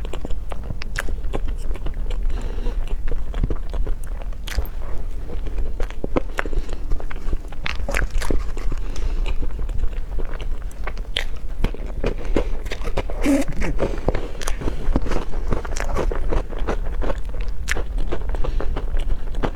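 Close-miked eating: biting and chewing, with many small irregular clicks and crunches over a steady low hum.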